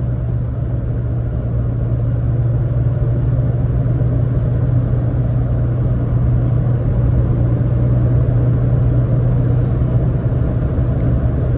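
Toyota AE86 Sprinter Trueno's 4A-GE twin-cam four-cylinder engine and road noise from inside the cabin, cruising at a steady highway speed with a constant low drone.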